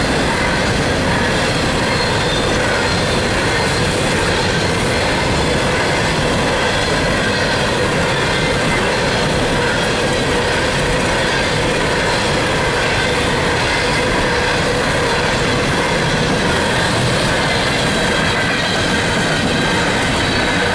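Empty coal hopper cars of a freight train rolling past: a steady, loud rumble of steel wheels on rail with faint ringing squeal tones over it.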